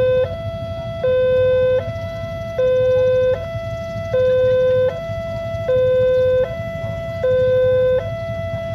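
Level-crossing warning alarm sounding: an electronic two-tone signal switching between a lower and a higher tone about every 0.8 seconds, the lower tone louder, warning that a train is approaching the crossing. A steady low rumble runs underneath.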